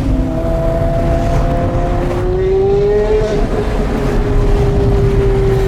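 A car engine running at fairly steady revs, its pitch creeping up a little about two to three seconds in and then holding steady.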